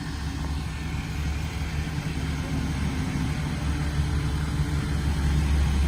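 Ford F650 rollback truck's engine idling with a steady low hum.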